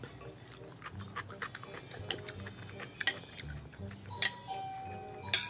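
Close-miked crunchy chewing of cucumber salad, a run of sharp crunches, with a metal spoon clinking on a ceramic plate about four seconds in and again near the end.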